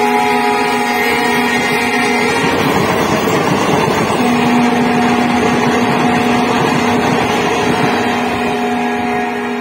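Passenger coaches of a diesel-hauled train passing close by at speed: a steady rush of wheels on rail with a droning tone running through it. The noise drops away near the end as the last coach clears.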